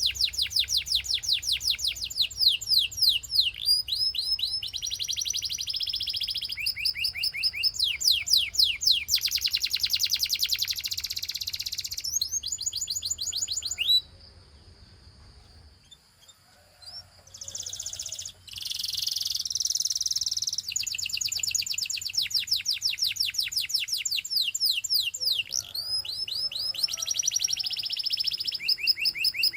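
Belgian canary singing: fast runs of repeated quick sweeping whistled notes alternating with buzzy rolling trills. The song breaks off about halfway through for around two seconds, then picks up again.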